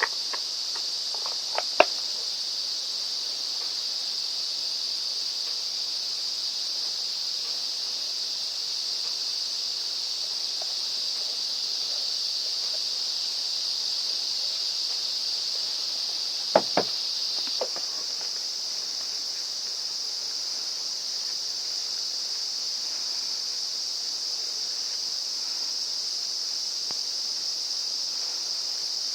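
Steady high-pitched insect drone. A few sharp clicks cut through it: one about two seconds in and a couple around seventeen seconds in.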